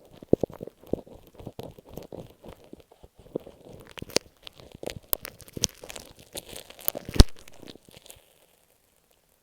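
Masking tape on an earphone microphone being handled right against the mic: close crinkling and crackling with many small clicks, one louder sharp knock about seven seconds in. The sounds stop a little after eight seconds in.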